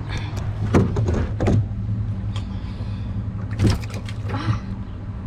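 Handling noise in a kayak as a weighed bass is taken off a fish scale: a few sharp knocks and clicks over a steady low hum.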